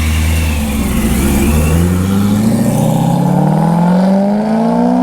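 Supercharged C6 Corvette V8 running at steady revs, then accelerating from about two seconds in, its note rising smoothly under throttle.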